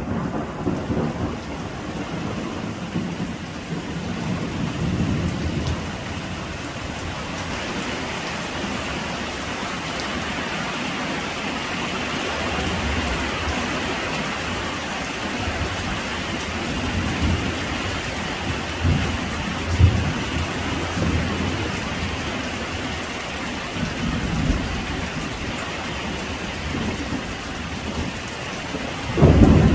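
Heavy rain falling steadily, with low thunder rumbling several times.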